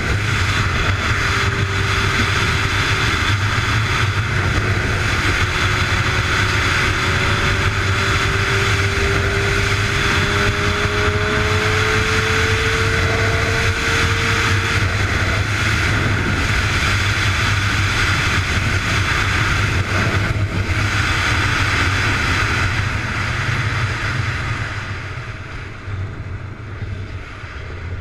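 Motor vehicle driving at speed: steady engine and road noise, with an engine tone slowly rising in pitch in the middle, then easing off and getting quieter near the end.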